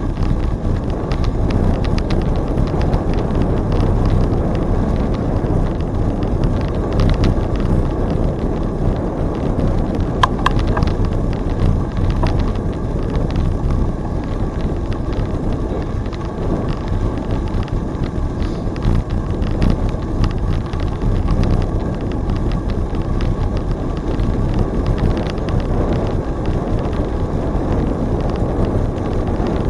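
Riding noise from a bicycle on the trail: steady wind buffeting the microphone over tyre rumble. A brief high tone sounds about ten seconds in.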